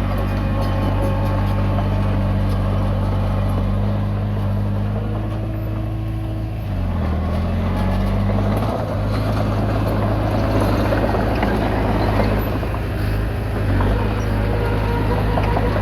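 Komatsu D20P bulldozer's diesel engine running steadily under work; its note dips briefly about seven seconds in and then comes back up.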